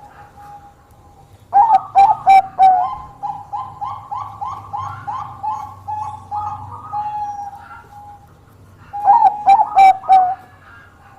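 Zebra dove (Bangkok-type perkutut) singing its cooing song: a loud opening phrase about a second and a half in, then a run of quick rising coos, about three a second, that trail off, and a second loud phrase near the end.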